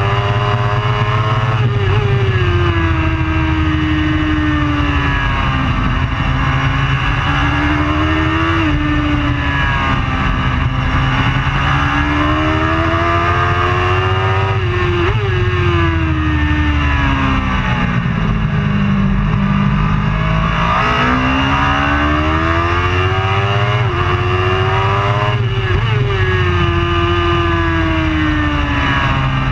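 Racing superbike engine revving up and down through the gears, the pitch climbing under acceleration, sagging into corners and jumping in sharp blips on the shifts, over a steady low rush of wind.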